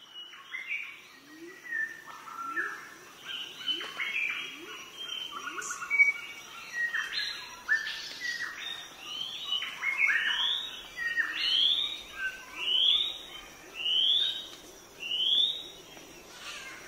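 Birds chirping and calling, many short notes overlapping; in the second half a run of rising calls repeats about once a second.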